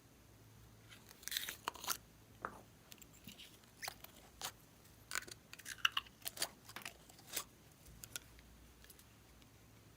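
Slime being squeezed and worked by hand, giving irregular crunchy clicks and pops, busiest in the middle and dying away near the end.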